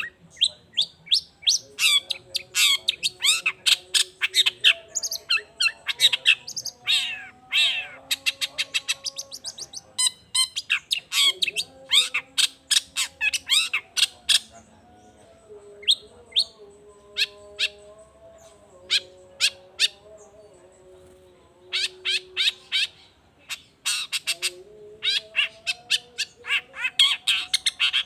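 Long-tailed shrike (cendet) in full agitated song: rapid bursts of sharp, harsh chattering calls, thinning to a few scattered calls in the middle before the dense chatter resumes.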